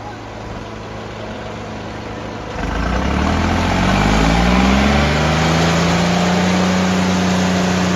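Tractor diesel engine running low, then opened up about two and a half seconds in: the engine note climbs over a couple of seconds and then holds steady at high revs.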